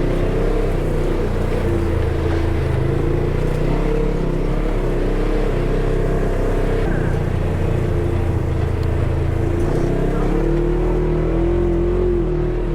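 Polaris side-by-side UTV engine running steadily under way, its pitch wavering with the throttle and rising slightly near the end.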